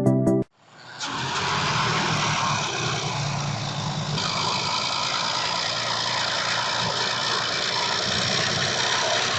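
Off-road vehicle's engine running steadily, with a broad rushing noise over it; it comes in about a second in, just after background music cuts off.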